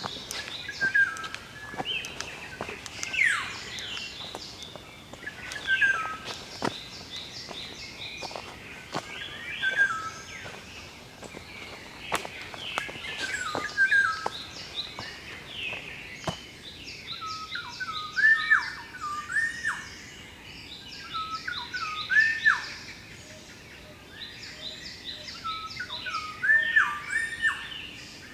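Several wild birds calling and singing together: high, fast repeated notes over a short whistled phrase repeated again and again, which gets louder about two-thirds of the way through. Short clicks are scattered among the calls.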